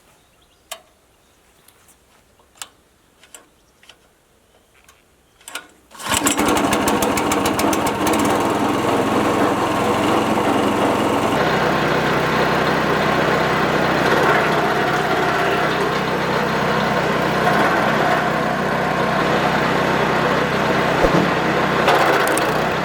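A few scattered clicks and knocks, then about six seconds in a wood chipper's engine starts up and runs loud and steady to the end. Its note shifts about eleven seconds in.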